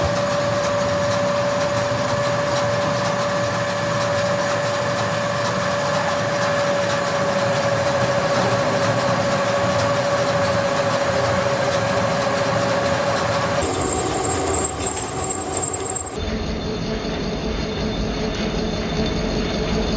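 Factory machinery running with a steady noisy drone and a held whine, typical of metal being machined in an axle works. The sound changes abruptly about 14 seconds in and again about 16 seconds in.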